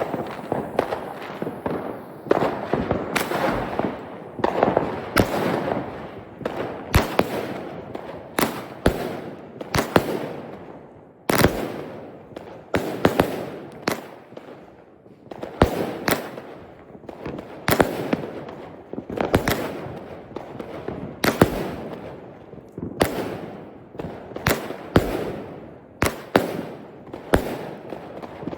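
Consumer fireworks battery (cake) firing: sharp bangs every one to two seconds, each followed by a spray of crackling.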